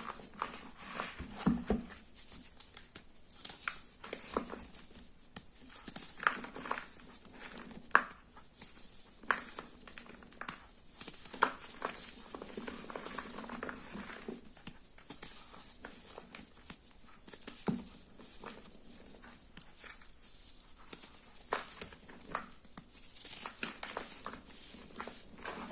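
Sports chalk being worked by hand: irregular crunching taps and crumbly scrapes, a sharp click every second or so, with a faint steady hiss behind.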